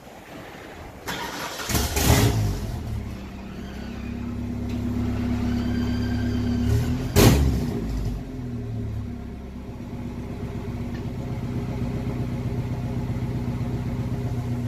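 Ford Pinto's swapped-in Ford Ranger 2.3-litre four-cylinder engine cranking and catching about two seconds in, then idling with its speed rising and falling. There is a single sharp bang about seven seconds in. A garage door opener runs faintly at first.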